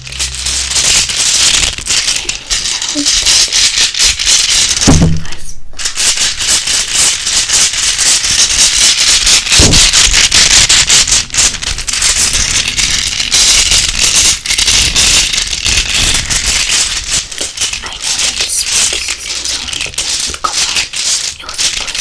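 Close-up scratching and rubbing on a surface right at the microphone: a dense, steady rasp with a short break about five and a half seconds in.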